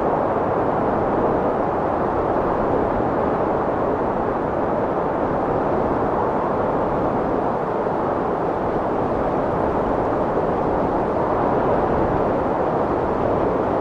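Strong wind blowing in a steady, dense rush with no gusting breaks, its energy mostly in the low and middle range.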